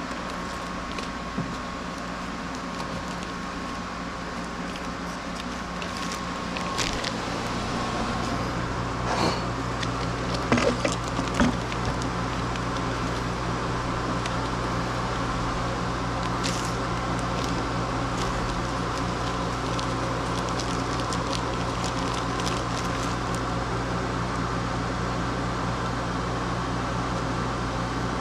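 Steady mechanical hum that grows slightly louder about seven seconds in, with a few sharp clicks and knocks between about nine and twelve seconds in.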